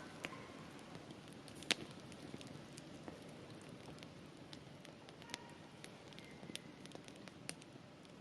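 Campfire burning: wood crackling with scattered sharp pops, the loudest a little under two seconds in.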